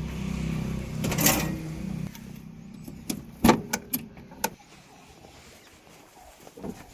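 A heavy engine running steadily, with a short rushing noise about a second in. The engine sound drops away after about two seconds, and a few sharp knocks follow.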